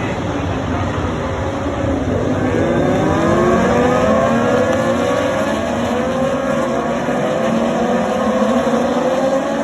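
A pack of racing motorcycles accelerating past, several engine notes overlapping and rising in pitch one after another.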